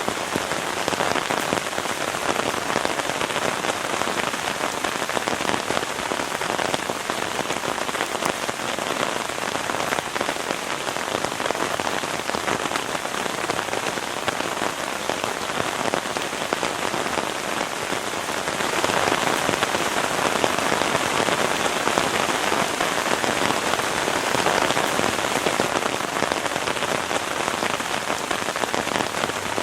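Heavy rain falling steadily, a dense hiss of drops that grows a little heavier about two-thirds of the way through.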